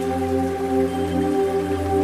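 Diesel locomotive engine running at a steady speed: a loud, even drone with a gently pulsing beat.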